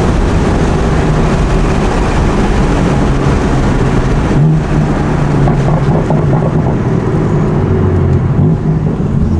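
BMW F82 M4's twin-turbo S55 inline-six, with a single mid-pipe exhaust fitted, running loud under load while driving, with a brief break in the sound about four and a half seconds in.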